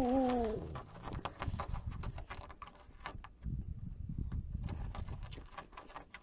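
A domestic cat's meow, wavering and falling as it trails off about half a second in, followed by scattered soft clicks over a low wind rumble on the microphone.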